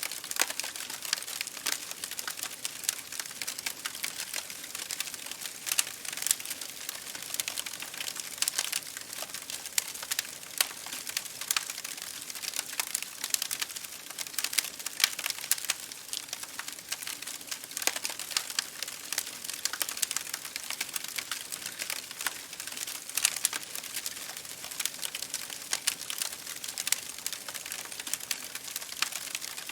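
Campfire burning, with dense, irregular crackling and popping of the burning wood throughout.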